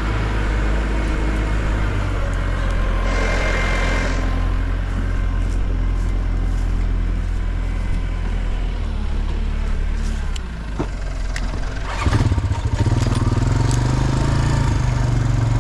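Backhoe engine running steadily, growing louder about twelve seconds in as it is throttled up.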